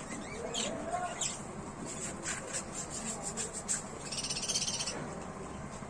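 Budgerigars chirping in short calls, with a brief burst of rapid, high chatter about four seconds in.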